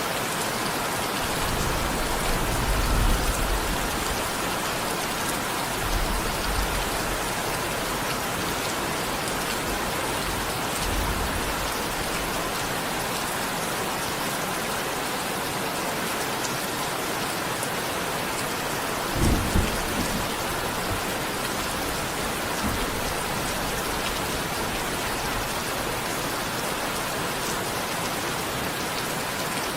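Steady heavy rain, with low rolls of distant thunder a few times, the strongest a bit past the middle.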